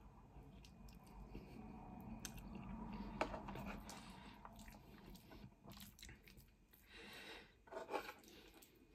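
Quiet chewing of soft pasta by a toothless eater gumming her food, with a few light clicks of a spoon against the bowl, one about three seconds in and more near the end.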